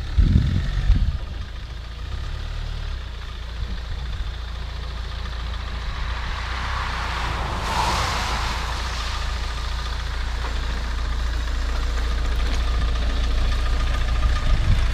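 UAZ Patriot's diesel engine running with a steady deep rumble, a few knocks in the first second. A rushing hiss swells and fades about halfway through.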